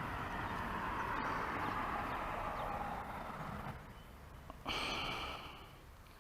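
A person's breath close to the microphone: a long exhale, then a short, sharper breath about five seconds in.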